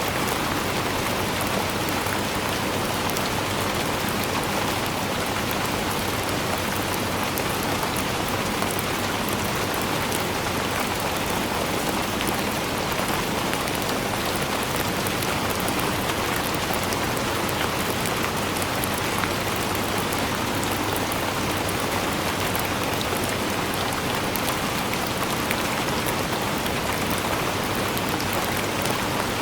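Steady rainfall, an even hiss of rain with many fine drops pattering on a surface.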